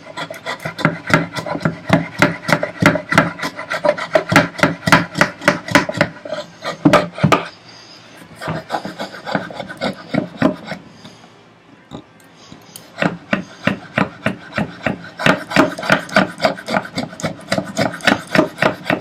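Stanley No. 71 hand router plane cutting wood, taking the floor of a housing dado down to depth in short, quick scraping strokes, several a second. The strokes stop for a few seconds about halfway through, then start again.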